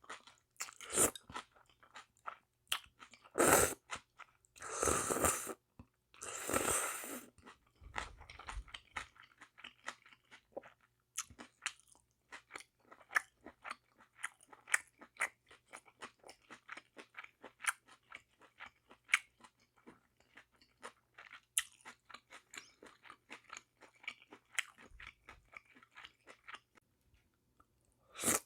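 Close-miked chewing of spicy bibim noodles with sea snails: a dense run of small wet clicks and crunches, with a few louder, longer bursts in the first seven seconds.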